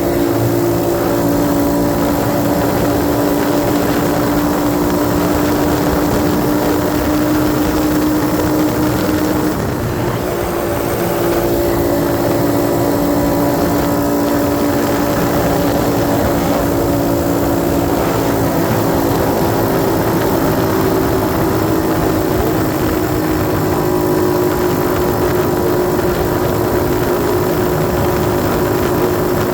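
A 90cc dirt bike's small single-cylinder engine running at a steady cruising speed under the rider, with wind rush over it. About ten seconds in, the engine drops off briefly, then pulls again at a slightly different pitch.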